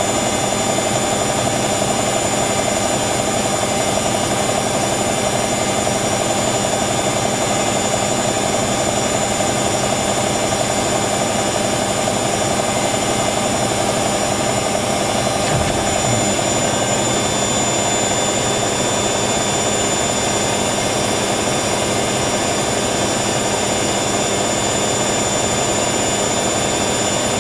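Hoover WDYNS654D slim-depth washer dryer on a high-speed spin at about 1,000 rpm after balancing its load. The drum gives a steady, even rush and whine.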